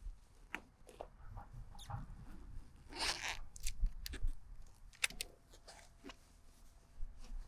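Close handling noise: scattered light clicks and rustling, with a short rasp about three seconds in.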